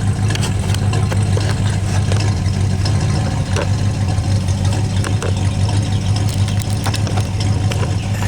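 A 1966 Pontiac Catalina's 389 V8 idling, cutting up and misfiring a little, which the owner takes for burnt ignition points.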